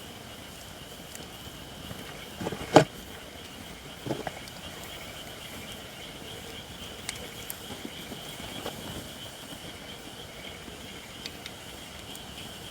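Japanese white oak (shirakashi) firewood burning in an open fire pit: a low steady crackle with scattered small ticks, one loud sharp pop a little under three seconds in and a smaller pop about a second later. The oak is not yet fully dry.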